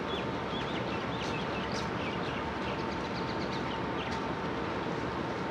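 Small birds chirping in short, high notes, scattered through the first four seconds, over a steady outdoor background rumble with a faint constant hum.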